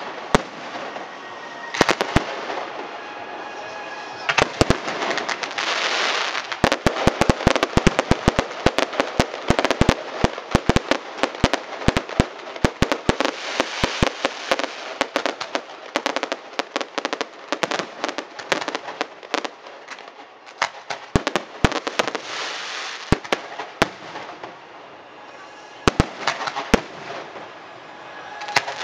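Aerial fireworks going off in rapid, dense volleys: many sharp bangs over a steady crackle. They are thickest through the middle and thin out toward the end.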